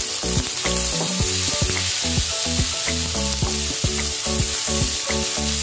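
Water spinach stems sizzling and frying in a hot oiled pan as they are stirred, under background music with a steady beat.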